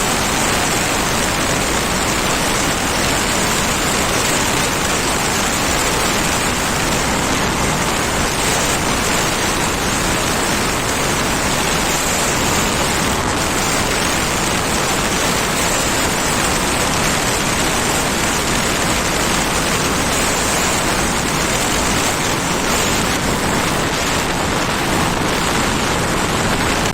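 Steady, loud rush of wind over the microphone while riding a Honda Activa scooter, with no distinct engine note standing out.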